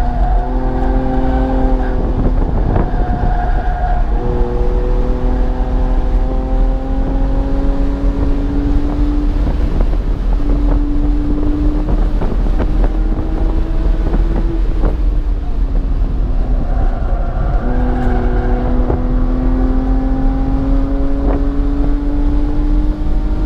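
BMW car engine driven hard on a fast lap, its note climbing slowly as it pulls, with a drop about four seconds in, then falling away for a couple of seconds around the middle before pulling up again. A heavy low road and wind rumble runs underneath.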